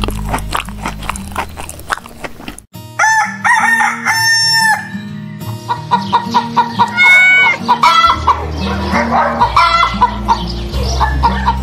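Chickens calling over background music: a few longer crow-like calls about three seconds in, then a quick run of short clucks.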